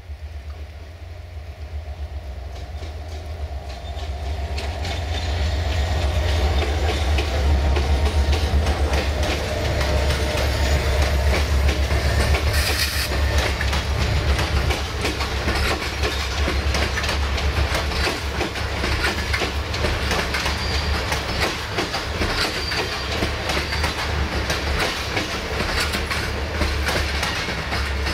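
CFR EGM621 diesel locomotive 65-0920-2 hauling passenger coaches past: its engine's low hum grows louder over the first few seconds as it approaches and passes. The coaches' wheels then clatter over the rail joints, with a little wheel squeal.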